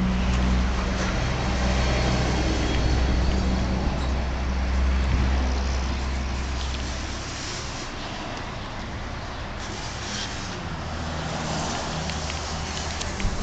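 A vehicle engine running with road-traffic noise, its low hum strong for about the first seven seconds and then weaker.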